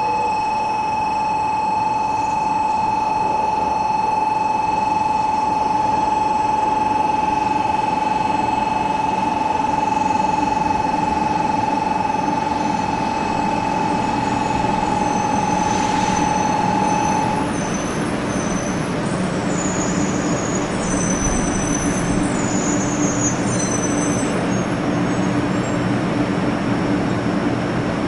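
Shinkansen train with a steady electrical whine that cuts off a little past halfway. A rougher running noise with a low hum and faint high shifting tones follows.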